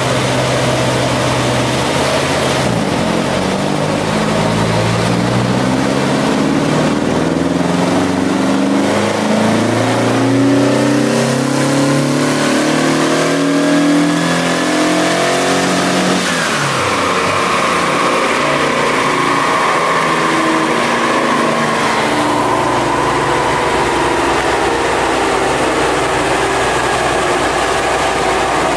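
Mildly tuned air-cooled 1600 cc Volkswagen Beetle flat-four (hotter cam, ported heads) on a chassis dynamometer making a full-throttle pull in third gear: after a couple of seconds at low revs it climbs steadily for about thirteen seconds toward about 5,500 rpm, then the throttle shuts suddenly and the car coasts down on the rollers with a slowly falling whine. The crew say the clutch was slipping during the run, which held the figure down.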